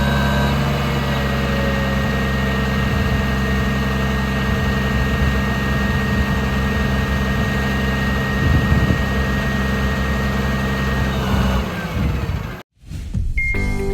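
2009 Kalmar spotter truck's diesel engine idling steadily, with a brief swell in level about two-thirds of the way through. It cuts off suddenly near the end.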